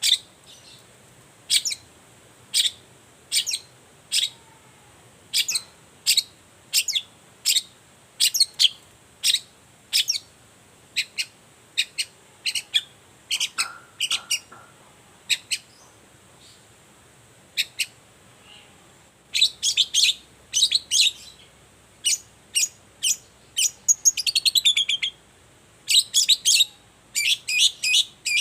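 Long-tailed shrike (cendet) giving short, sharp, high calls over and over, about one a second, coming in quicker runs later on, with a brief rapid rattle about three-quarters of the way through.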